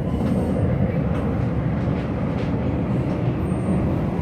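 Hanshin electric commuter train running, heard from inside the car: a steady rumble of wheels on rail and running gear, with a few faint clicks.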